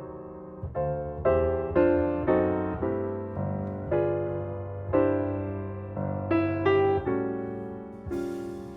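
Background music: a piano playing a slow, gentle melody, each note struck and then fading.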